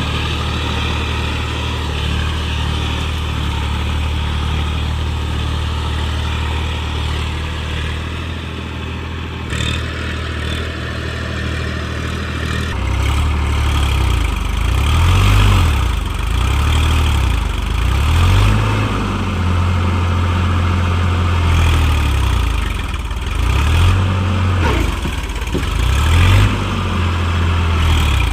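New Holland tractor's diesel engine running steadily, then from about halfway through its speed rises and falls again and again.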